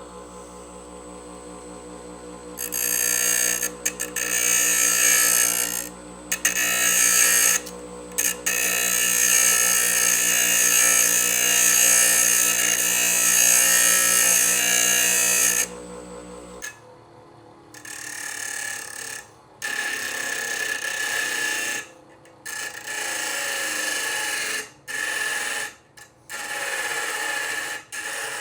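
Bucktool 8-inch variable speed bench grinder running with a steady motor hum while steel scissors are pressed into the wheel, a loud harsh grinding that comes in long stretches with short breaks. About 17 seconds in the motor hum drops away and the grinding goes on in shorter bursts with gaps between them.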